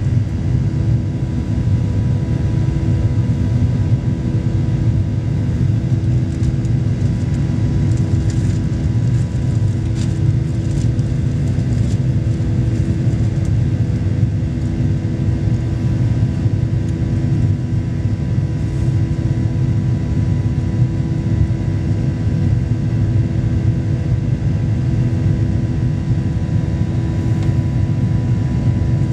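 Steady cabin noise of a Boeing 737-800 after takeoff: the low rumble of its CFM56 turbofans and airflow, with several faint steady whining tones over it and no change in level.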